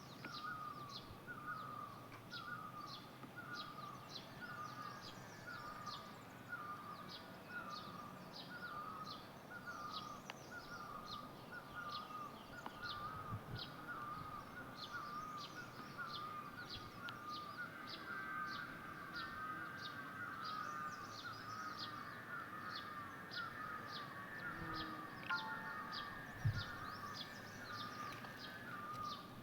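Faint, steady chorus of birds calling. One short wavering note repeats about twice a second, over a run of higher, shorter chirps at a similar pace.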